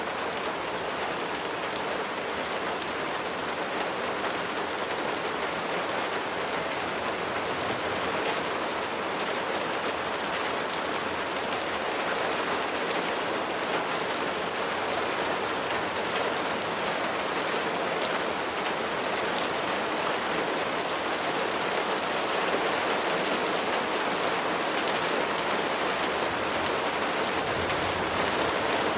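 Steady rain falling on a surface, a dense even patter with many small individual drop ticks.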